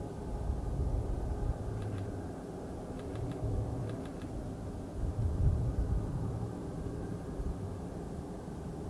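BNSF freight train running by with a steady low rumble and a faint engine drone, and a few light clicks about two, three and four seconds in.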